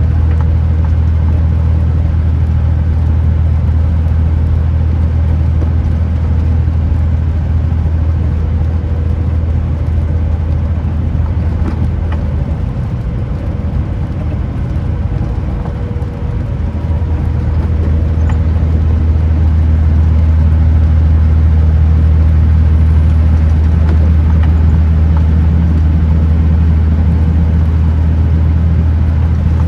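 Kenworth T909 truck's diesel engine running on the road, a steady low drone. It eases off about 13 seconds in, then builds again from about 17 seconds and stays louder.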